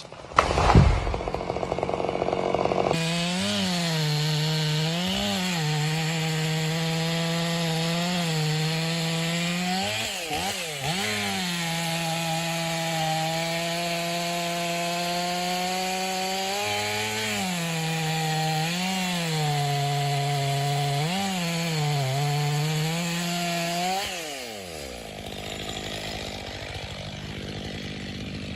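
Two-stroke chainsaw running at high revs through a cut, its pitch dipping briefly several times as the chain bogs under load. About four seconds from the end the throttle is released and the engine falls away to a lower, quieter idle. A short loud noise comes about a second in, before the steady running begins.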